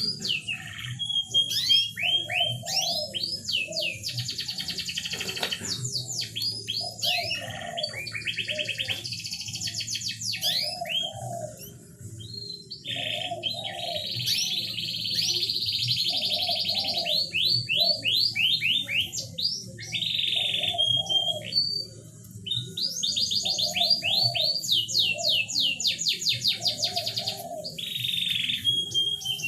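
Canary song: fast trills and quick downward-sweeping notes, with a lower phrase repeating about every second and a half underneath and music in the background.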